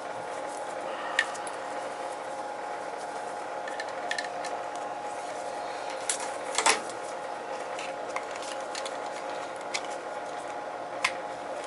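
Scattered sharp clicks and taps of hand tools and wires being handled during wiring work on an oil burner control, over a steady background hum.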